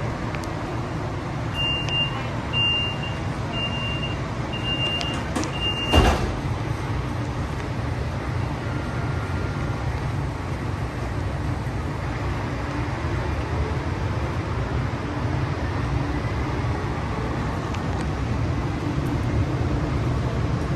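Siemens light-rail trolley: five short warning beeps about a second apart as the doors close, a loud thud about six seconds in as they shut, then the car running with a steady low rumble as it pulls away.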